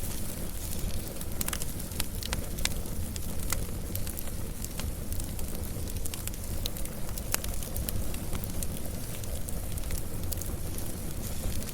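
Wood fire burning, with a steady low rumble of flames and frequent sharp crackles and pops scattered irregularly throughout.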